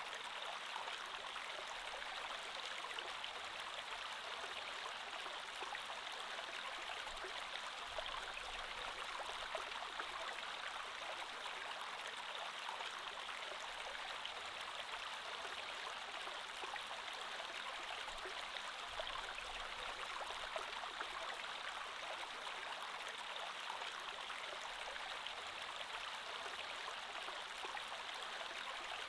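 Creek water flowing steadily over stones: an even rushing with fine splashing and trickling.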